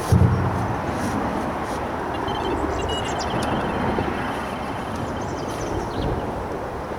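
Steady road traffic noise from the A14 bridge, with a brief low thump just after the start.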